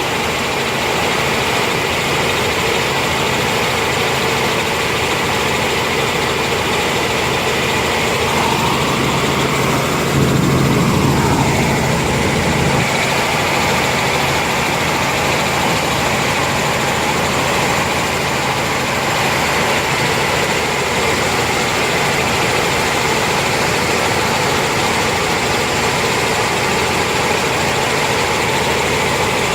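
Helicopter in flight heard from inside the cabin: a loud, steady drone of engine and rotor, swelling briefly in the low end about ten seconds in.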